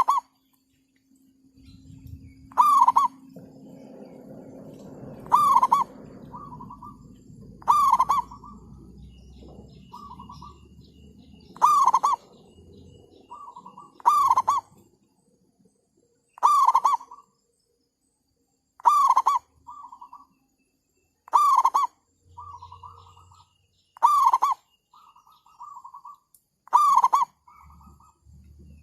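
Zebra doves (perkutut, merbuk) cooing: a loud rolling call repeats about every two and a half seconds, each followed by a softer, broken coo at the same pitch. A low rumble sits underneath during the first half.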